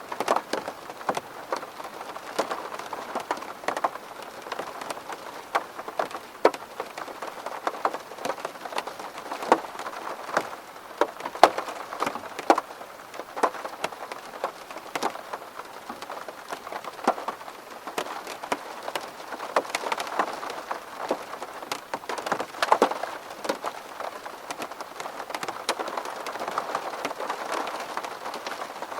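Steady rain falling on window glass: a constant patter with many distinct, irregular drop ticks.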